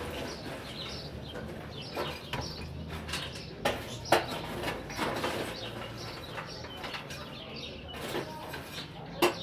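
Birds chirping in short repeated calls, with a few sharp knocks, the loudest about four seconds in and near the end.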